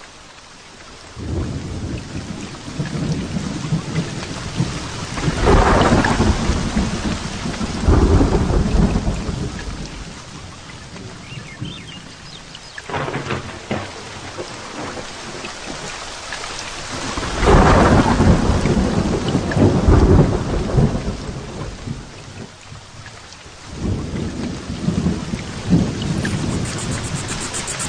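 Heavy rain falling steadily through a thunderstorm, with long rolls of thunder: one swelling twice in the first ten seconds, another in the middle, and a shorter one near the end.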